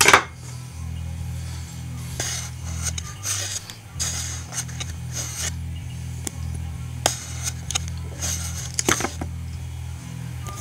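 Ikea Slitbar kitchen knife cutting on a board: a sharp clack at the start, then a run of short scraping strokes, over a steady low hum.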